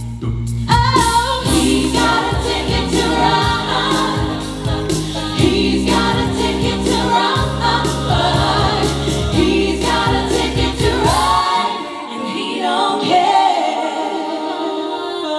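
Group of singers performing in close harmony over a backing of bass and drums; about eleven seconds in the bass and beat drop out and the voices carry on alone.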